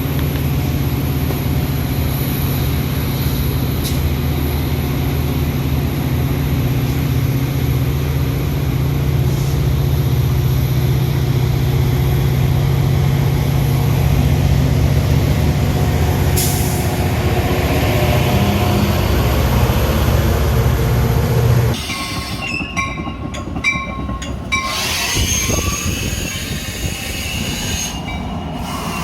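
Metra commuter train's diesel locomotive running with a steady low hum. About twenty-two seconds in the hum cuts off suddenly, and thinner, quieter high-pitched squeals, typical of train wheels, follow near the end.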